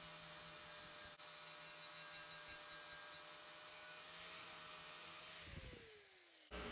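An electric power tool's motor runs with a steady whir. About five seconds in it is switched off and winds down, its pitch falling as it slows. It then cuts abruptly to a different steady machine noise.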